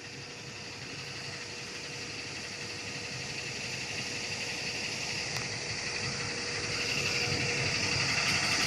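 Steady running noise of a moving vehicle with a faint steady whine, growing gradually louder.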